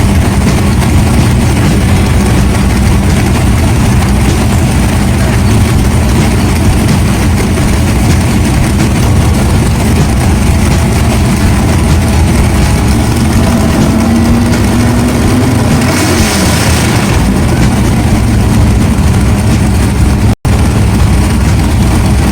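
Race car engine running loud and steady. Its pitch briefly rises and falls about two-thirds of the way through.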